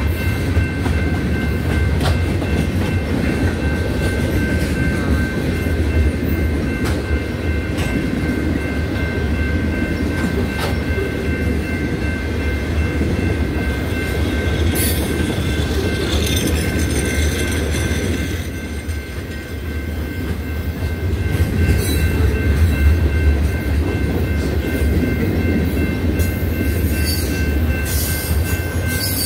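Freight cars of a mixed manifest train rolling past at speed: a steady heavy rumble of steel wheels on rail with clickety-clack from the rail joints. Brief high-pitched wheel squeals and scrapes come about halfway through and again near the end.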